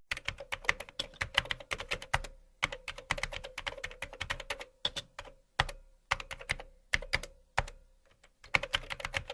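Typing on a keyboard: quick, irregular clicks in bursts, broken by short pauses, over a faint steady hum.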